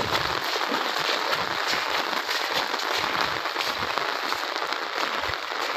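Heavy rain falling, a steady patter of many small drops.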